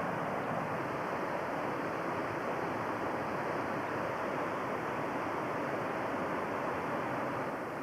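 Steady, even rush of flowing river water, with no breaks or single events.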